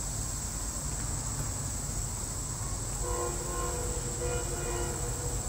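SEPTA regional rail train rumbling past a grade crossing, its horn sounding in a couple of short held blasts about three seconds in. Insects buzz steadily in the background.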